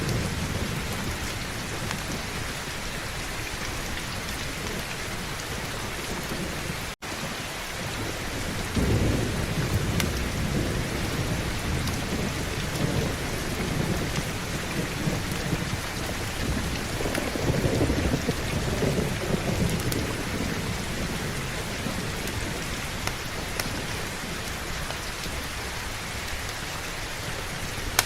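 Heavy rain falling steadily, with rolling thunder: low rumbles swell about nine seconds in and again around seventeen to twenty seconds. The sound cuts out for an instant about seven seconds in.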